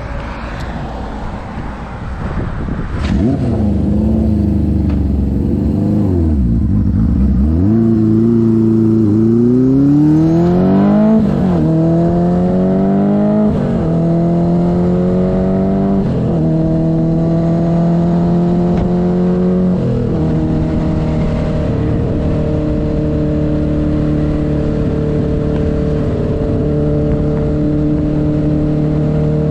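1972 Honda CB500's inline-four engine pulling away and accelerating through the gears. The revs climb and drop back at each of several upshifts, then settle into a steady cruise for the last third.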